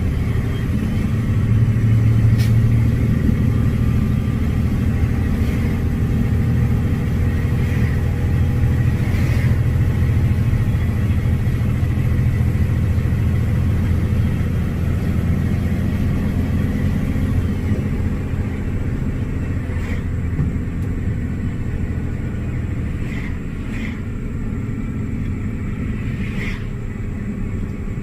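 Semi truck driving, its engine and road noise giving a steady low rumble, with a few short clicks here and there.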